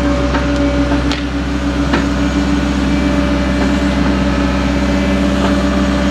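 Caterpillar excavator engine running steadily as the machine digs, with a few short knocks in the first two seconds.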